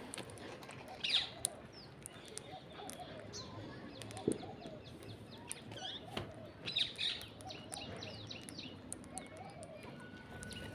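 A group of parrots chirping and calling in quick, repeated short notes as they feed, with scattered small sharp clicks among them.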